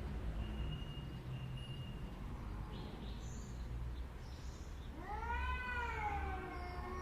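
A cat yowling in a fight: one long drawn-out call starting about five seconds in, rising then sliding down in pitch, over a steady low rumble.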